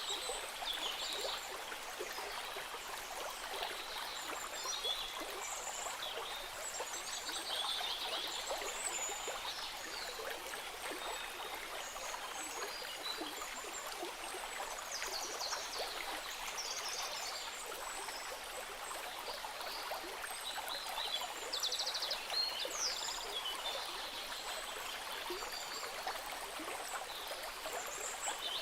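Stream running steadily over stones, with short high chirps and trills scattered throughout.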